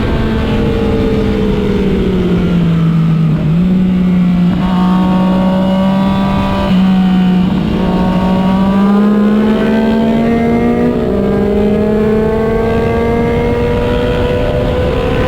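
Motorcycle engine running on the move, its pitch sinking and then climbing with the throttle, with a jump in pitch about three and a half seconds in, over a steady rushing noise.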